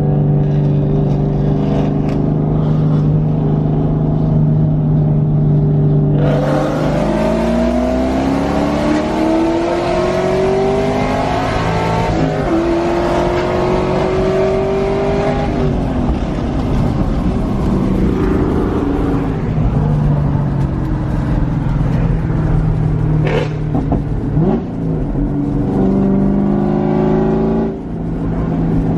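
Muscle car engine and loud exhaust cruising at a steady drone, then opening up about six seconds in: the revs climb, drop at a gear change and climb again, then it settles back to a steady cruise.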